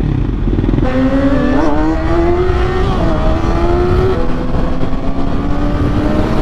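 600cc inline-four sportbike engine pulling under acceleration, its pitch climbing steadily, with an upshift drop about four seconds in and the pitch climbing again after it, over loud wind rush.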